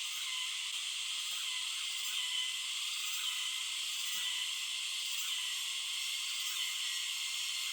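A steady high hiss that holds level throughout, with no distinct knocks or calls.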